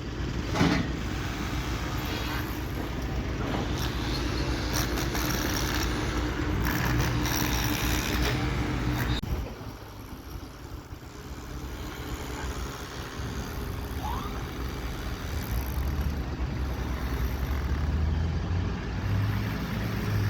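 Heavy machinery's engine running with a steady low drone and mechanical clatter. The sound changes abruptly about nine seconds in, then the engine note rises and wavers toward the end.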